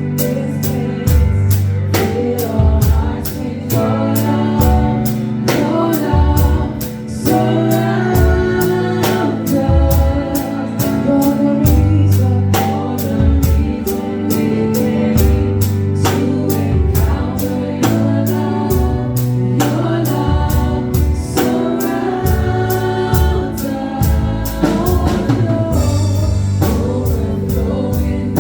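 Gospel worship music: a church worship team and congregation singing together over a drum kit and bass-heavy band accompaniment with a steady beat.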